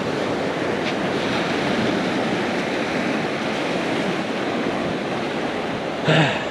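Ocean surf breaking and washing steadily onto the beach, with a brief louder noise about six seconds in.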